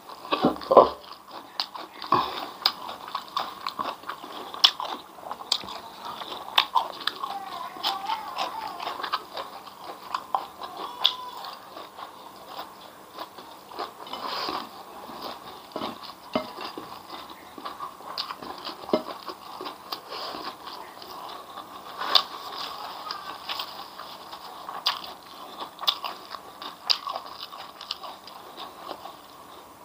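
Close-up mouth sounds of chewing and crunching fried grasshoppers with rice: irregular crisp crunches and wet clicks, with some louder bites.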